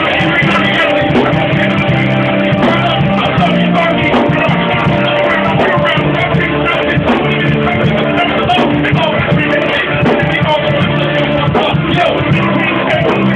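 Live band playing a steady groove, with a voice singing over it.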